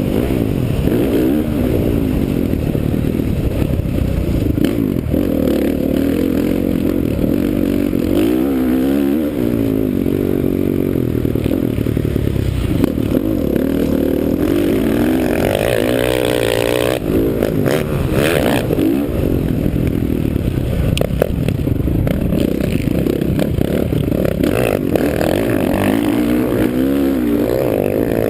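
2009 Honda CRF450R's 450 cc single-cylinder four-stroke engine heard onboard under race riding, its revs rising and falling again and again as the throttle is opened and shut. A high climb about fifteen seconds in ends in a sudden drop a little later, and knocks and clatter from the bike come through throughout.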